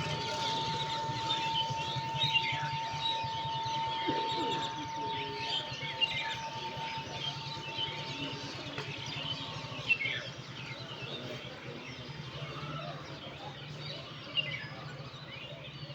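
Many small birds chirping and calling together in a dense morning chorus, over a steady low hum. A thin steady tone runs beneath the chorus and stops about ten seconds in.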